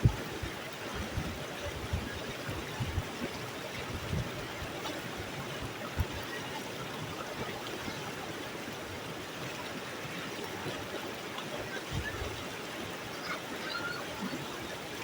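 Stream water rushing steadily over rocks, with a few dull low thumps, mostly in the first few seconds.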